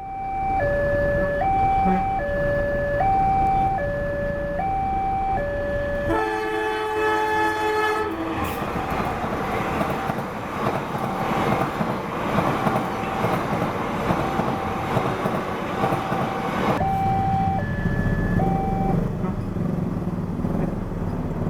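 Railway level-crossing warning alarm sounding a steady two-tone electronic signal, alternating high and low about every three-quarters of a second. About six seconds in a train horn sounds a chord for about two seconds. The train then passes with a long rushing rumble, the alarm still faintly going underneath; the alarm is heard clearly again and stops near the end.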